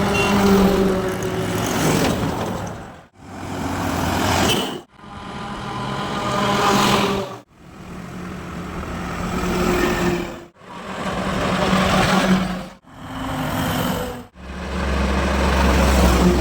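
Trucks passing on a highway, engines running, in a run of short clips that each cut off abruptly. The sound swells as each truck approaches.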